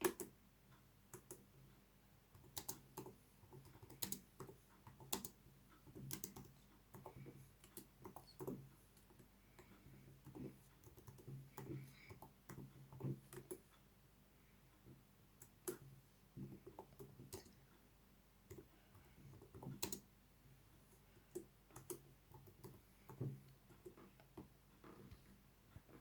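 Faint, irregular clicks and taps, coming in loose clusters with short quiet gaps between them.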